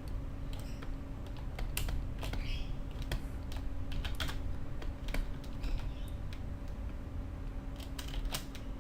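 Computer keyboard typing: irregular key presses and clicks, over a steady low hum.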